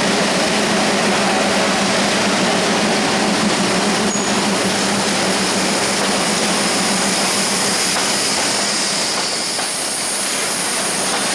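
Freight train of bogie oil tank wagons, hauled by a WDM3A diesel locomotive, rolling past close by: a loud, steady rumble and hiss of wheels on the rails, with a brief high wheel squeal about four seconds in.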